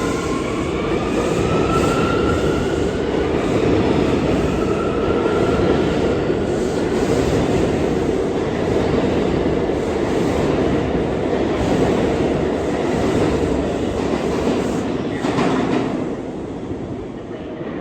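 New York City Subway (A) train running through the station: a loud, steady rumble with wheels clacking over the rail joints and a rising whine in the first few seconds, fading about 16 seconds in as the train moves off.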